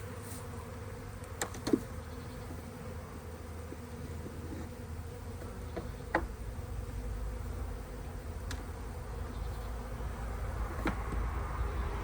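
Honey bees buzzing steadily around an opened hive, with a few sharp knocks, the loudest about two seconds in.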